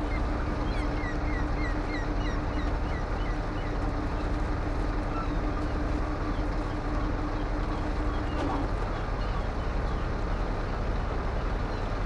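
Truck engine running steadily under a continuous rumble, with a steady droning tone that cuts off about eight and a half seconds in. A quick series of short high chirps sounds over it in the first few seconds.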